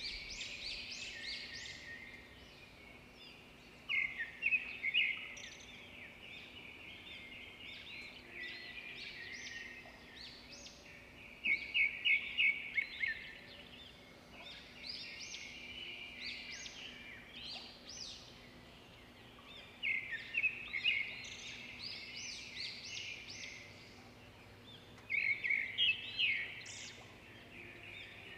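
Small birds chirping continuously, several at once, with four louder bursts of rapid chirping spaced through the stretch.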